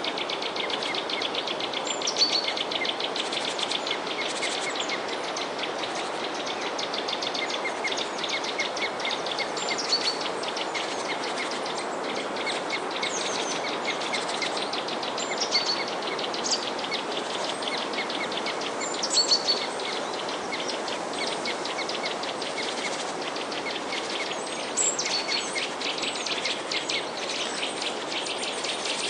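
A chorus of small songbirds chirping and twittering continuously, many quick overlapping calls and trills, over a steady rushing background noise.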